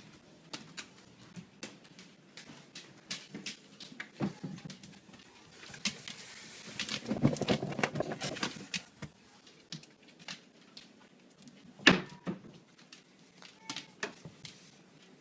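Dogs moving about while dog treats are fetched: scattered light clicks and taps, a rustling stretch from about six to eight and a half seconds in, and one sharp knock, the loudest sound, about twelve seconds in.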